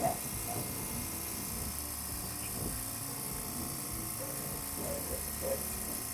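Refrigeration equipment running: a steady mechanical hum and noise from a compressor and condensing unit.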